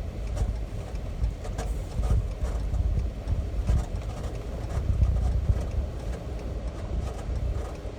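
Ram dually pickup carrying a truck camper driving along: a steady low rumble of engine and tyres, with scattered light knocks and rattles.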